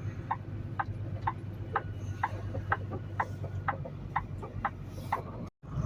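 Turn-signal flasher ticking in a Peterbilt truck's cab, about two clicks a second, over the steady low hum of the diesel engine. The sound breaks off sharply near the end.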